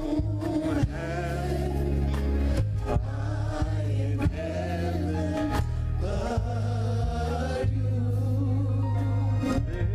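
Gospel music: a choir singing over bass and drums.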